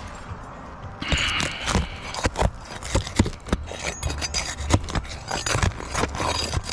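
Roof shingles being pried up and handled: irregular scraping, knocks and clicks that start about a second in and keep going.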